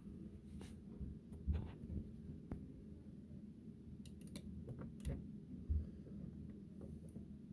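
Scattered clicks and light knocks of a die-cast model truck being handled and turned in the hands, over a low steady hum.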